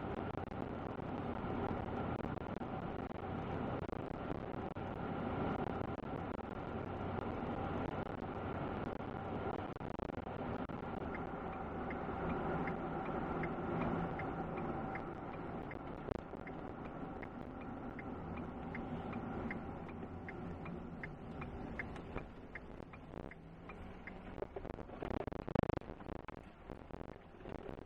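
Road and engine noise inside a moving truck's cabin, a steady hum. In the middle a regular ticking, about two a second, runs for about ten seconds. Near the end the noise drops and a few knocks are heard.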